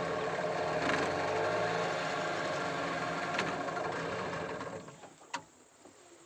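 Speedboat's outboard motor running steadily, then dying away quickly about five seconds in, followed by a single sharp click.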